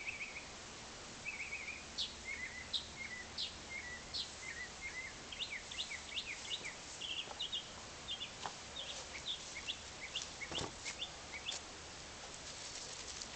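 Small birds chirping repeatedly in short, quick notes, with one soft knock about ten and a half seconds in.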